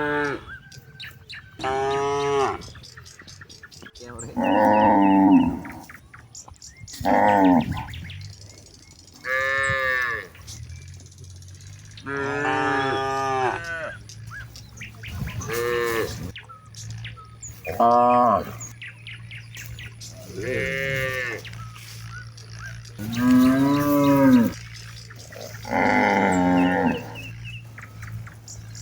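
Cattle mooing over and over, with one loud drawn-out moo every two to three seconds, about eleven in all.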